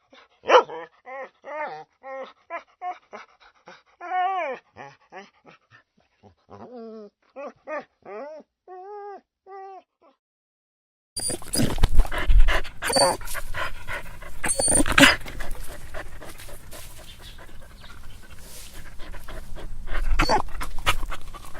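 Dog whining: a quick run of short, high whimpers, each rising and falling in pitch, for about ten seconds. After a short silence, a louder, noisier recording follows with more dog sounds and sharp loud breaths.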